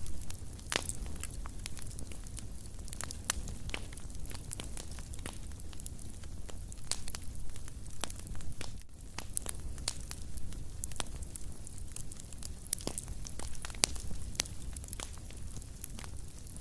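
Wood fire crackling in a fireplace: a steady low rumble of the flames with irregular sharp pops and snaps scattered throughout.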